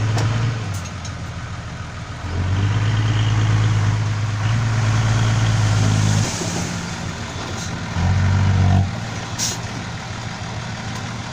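Six-wheel dump truck's diesel engine running, its note rising and falling back in several spells. There is one sharp knock about nine and a half seconds in.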